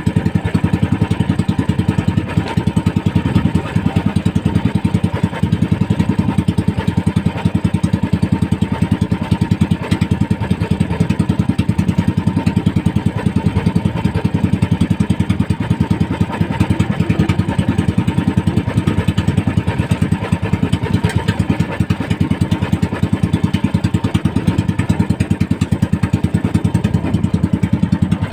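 Small engine of a motorized fishing bangka running steadily at a constant speed, with a fast, even firing beat.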